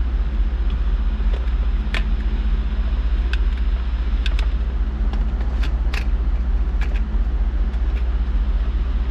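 2002 Jaguar XK8's 4.0-litre V8 idling steadily, running smoothly. A few short, sharp clicks sound over it.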